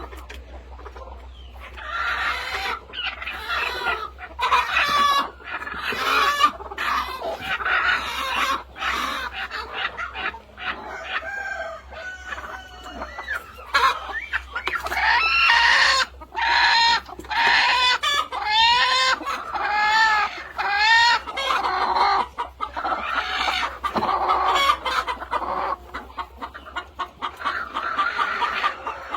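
A flock of chickens clucking and calling, with many short overlapping calls throughout and the busiest stretch past the middle.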